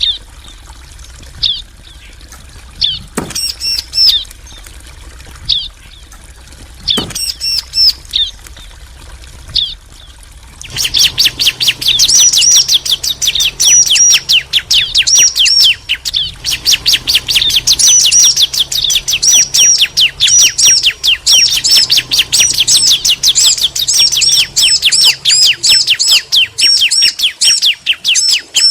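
Bar-winged prinias (ciblek), female and male, calling back and forth. Sparse short high chirps come first, with two sharp clicks among them. About a third of the way in, a loud, fast, unbroken run of repeated high notes starts and keeps going.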